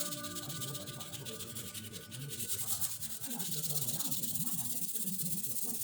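Sandpaper rubbing back and forth over epoxy-primed truck sheet metal, a steady hiss of quick hand strokes, as a guide coat is sanded off. A music bed fades out just at the start.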